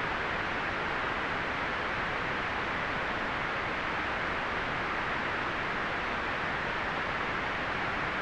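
Continuous white noise for relaxation: a steady, even hiss with no change in level, strongest in the middle range and muted in the highest treble.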